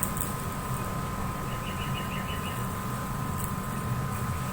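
Steady low background rumble with a faint, steady two-tone hum over it and a few faint ticks.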